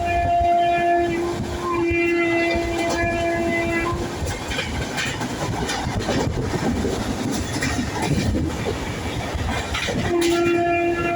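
Train horn sounding a long steady blast, then a second, longer one, followed by the rumble of a moving train with wheels clicking over the rails; the horn sounds again near the end.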